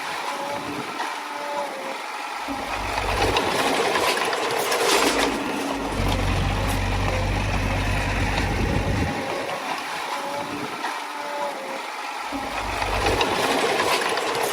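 Diesel engine of a small Komatsu D20A crawler bulldozer working a stone fill. The deep engine note falls away twice and comes back as the load changes, with a few metallic clanks.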